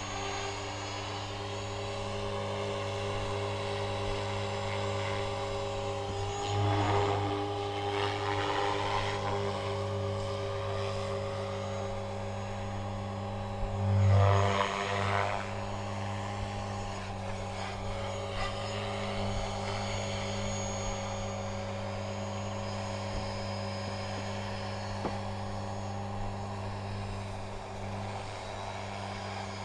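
Align T-Rex 500 electric RC helicopter in flight: a steady buzzing hum from its motor and rotors, swelling briefly louder twice, about a quarter and about halfway through, the second swell the louder.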